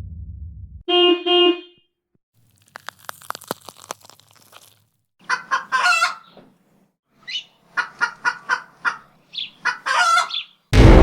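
A short single car-horn blast, then celery stalks snapping and crunching in a quick run of crisp cracks, then a hen clucking in a long series of short calls. The tail of a low rumble fades out at the start, and a loud low horn blast begins at the very end.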